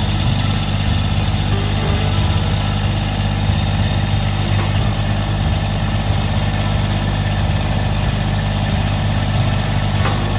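Massey Ferguson GC1723E subcompact tractor's three-cylinder diesel engine running at a steady speed.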